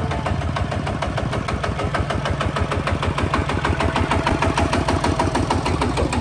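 Small tractor engine running steadily with a fast, even knocking beat.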